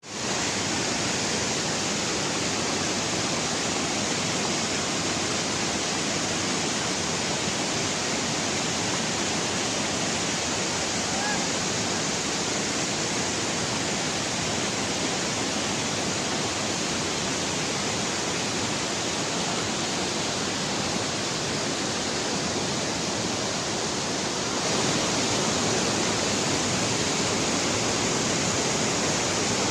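Steady rushing of flowing water, a stream or waterfall. It gets slightly louder about 25 seconds in.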